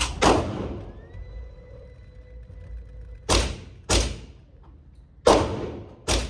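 Gunshots from other shooters' lanes at an indoor range, about six sharp reports spaced irregularly, each ringing briefly in the room. Between the first shots and the third, the lane's target-carrier motor runs with a steady hum for about two seconds.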